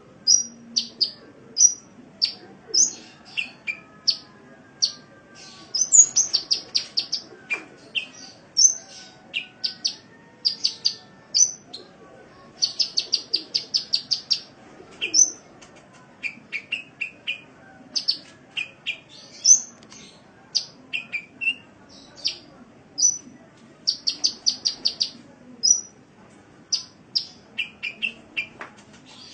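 Sunbird ('kolibri') song: rapid high-pitched trills of short chip notes mixed with single sharp chips and brief lower twitters, repeated over and over with short pauses.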